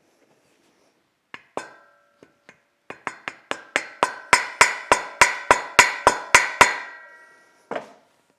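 Hammer strikes on metal with a ringing tone after each: a few light taps, then a steady run of about three blows a second that grows louder and then eases off, and one last blow near the end.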